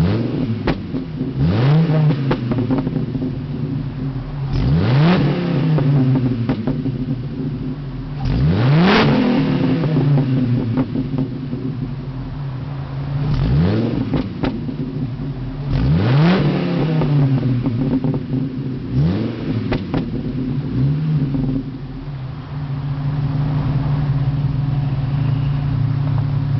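2008 Chevrolet Colorado's 3.7-litre inline-five engine, warmed up, revved through its exhaust about seven times in quick blips, each rising and falling back toward idle, before settling into a steady idle near the end.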